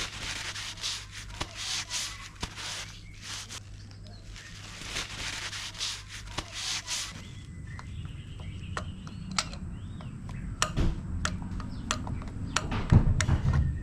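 Hand scraping strokes in two runs of rapid back-and-forth rubbing. After that come scattered sharp clicks and knocks of tools over a low hum, loudest near the end.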